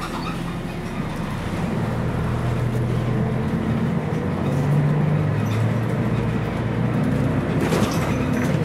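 Scania CN113CLL city bus's Scania DSC 11.71 diesel engine pulling away and accelerating, its pitch climbing, dropping back once about halfway through as the Voith D863 automatic gearbox shifts up, then climbing again.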